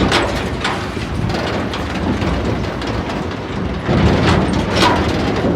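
Tractor running and rattling, a loud, steady clatter of engine and rattling metal.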